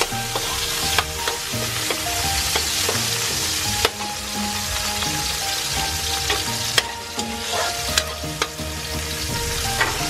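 Sliced onions, garlic and tomatoes sizzling in hot oil in a wok as they are sautéed, stirred and scraped with a metal wok ladle, with sharp clicks of the ladle against the wok now and then.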